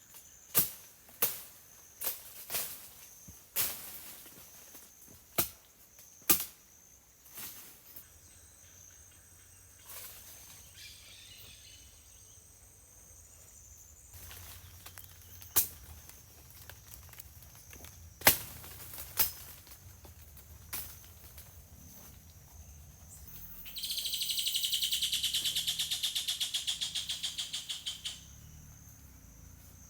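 Steady high insect drone with sharp knocks or cracks at irregular intervals, most in the first eight seconds. About 24 seconds in, an insect breaks into a loud, rapidly pulsing buzz that lasts some four seconds.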